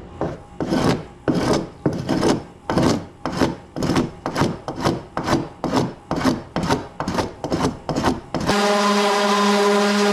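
Wooden canoe hull being worked by hand with an abrasive tool: rough back-and-forth strokes on wood, about two a second. About eight and a half seconds in, the strokes stop and a steady motor hum starts.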